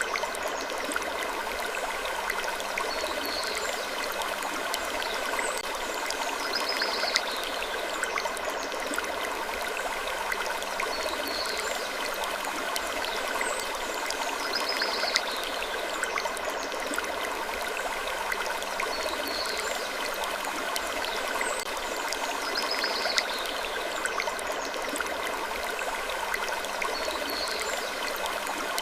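Steady rushing noise like running water, with faint short high-pitched sounds recurring every second or two.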